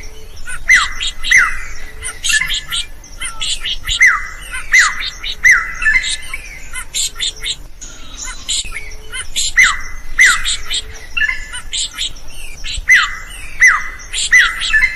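Drongo (srigunting) singing continuously: rapid high chips and whistles broken every few seconds by a pair of sharp downward-sweeping notes, the same phrase repeating over and over.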